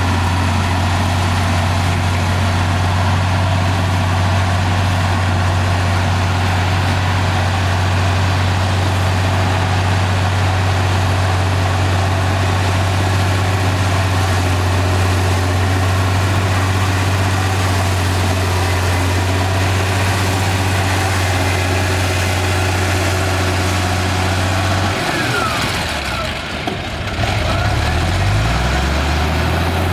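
Komatsu D58E bulldozer's diesel engine running with a steady, deep hum. Near the end the engine note wavers and shifts in pitch as the load changes, with a brief dip in loudness.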